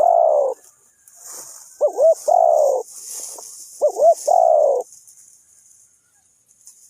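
Spotted dove calling in repeated phrases about two seconds apart, each two short coos followed by a longer coo that falls in pitch; the last phrase ends a little before halfway through. A steady high hiss sits behind the calls.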